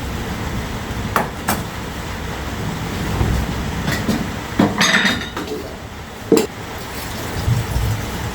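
Scattered knocks and clatters, about six in all and the longest a short rattling cluster near the middle, over a steady low background noise.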